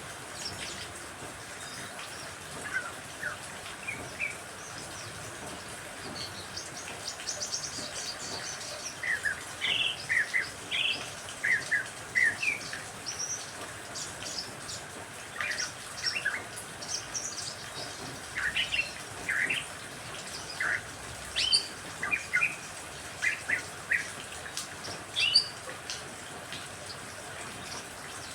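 Songbirds chirping and calling in quick short notes and trills, in bursts that come and go, over a steady hiss of rain.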